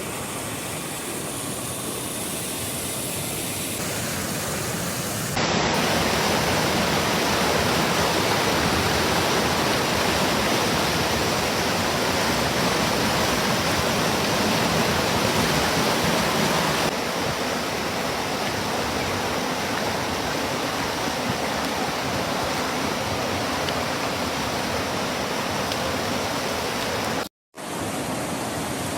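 Fast stream rushing over rocks: a steady, loud wash of water noise. It jumps louder about five seconds in, eases a step about seventeen seconds in, and cuts out for a moment near the end, as the clips change.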